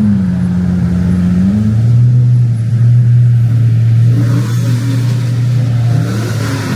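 A car engine idling close by, its pitch sagging and lifting briefly, with a short rise in revs near the end.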